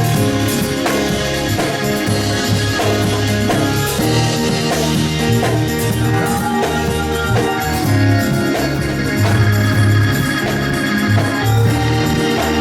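Gospel church band playing: organ holding chords over a pulsing bass line, with drum strikes keeping the beat.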